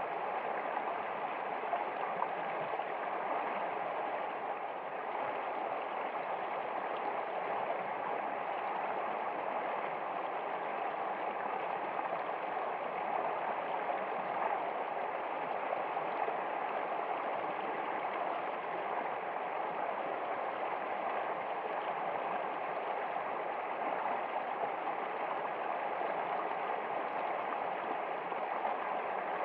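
Water flowing steadily, an even, unbroken rushing.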